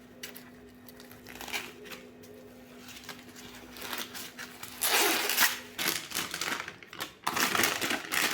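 Plastic kitchen wrap crinkling as it is handled and wrapped around an ear of sweet corn. It starts as faint rustles and becomes loud, irregular crinkling from about five seconds in.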